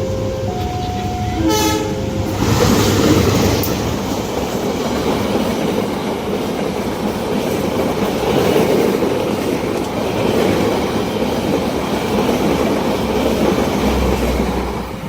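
A level-crossing warning alarm sounds in two alternating tones, a train horn gives a short blast about a second and a half in, and then a long train passes the crossing at speed, its wheels and cars filling the rest with a dense rumble and clatter.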